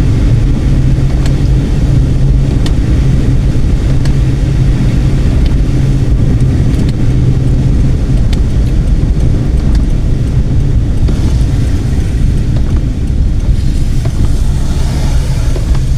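Car driving along a road: a steady, loud low rumble of engine and tyre noise, with a few faint clicks.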